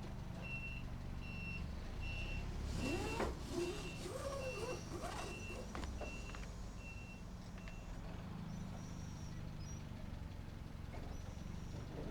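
A vehicle's reversing alarm beeping about ten times, evenly, a little under a second apart, then stopping, over a steady low diesel engine hum. A few short squeaks come in the middle.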